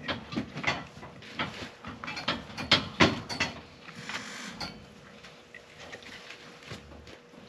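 Irregular knocks, clicks and rustling as a newborn calf is held and an esophageal feeding tube is worked down its throat. The loudest knocks come about three seconds in, then it quietens.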